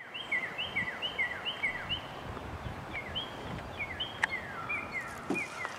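Birdsong outdoors: a run of quick high chirps, each a short rising note paired with a falling one, about three a second at first and sparser later. One sharp click comes about four seconds in.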